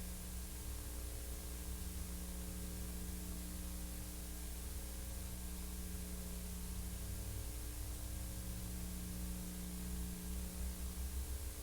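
Steady electrical hum with hiss and a low rumble, the noise floor of an old film transfer; no other sound stands out.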